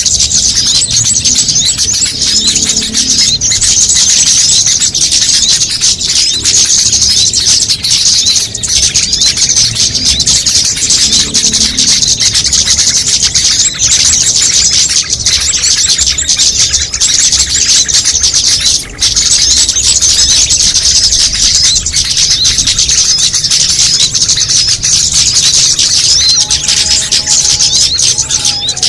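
Bird-lure recording of many small songbirds calling at once: a dense, unbroken run of high, rapid chirps and trills.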